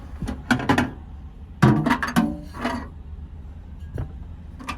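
A small microwave oven being handled and tried out: a quick run of clicks, clunks and clinks in the first three seconds, with one more knock about four seconds in.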